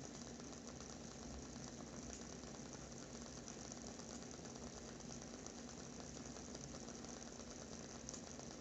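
WoodWick candle's wooden wick burning with a faint, steady crackle of rapid small ticks, over a low steady hum.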